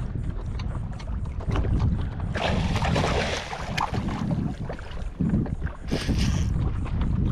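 Wind rumbling on the microphone over a kayak on open water, with two short bursts of splashing hiss: one from about two and a half to three and a half seconds in, the other about six seconds in.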